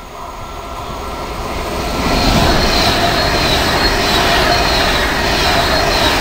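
Class 390 Pendolino electric train passing through at speed. It grows louder over the first two seconds as it approaches, then holds a steady rush of wheels on rail and air, with a thin high whine above it.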